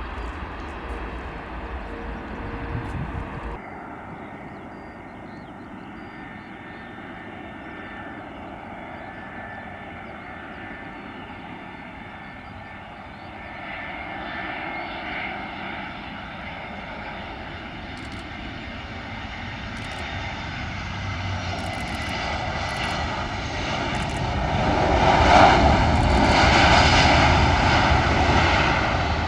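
Jet airliner on approach to landing, its engines' whine and rumble growing steadily louder and peaking about 25 seconds in as it passes closest. At the start a low rumble cuts off abruptly after about three and a half seconds.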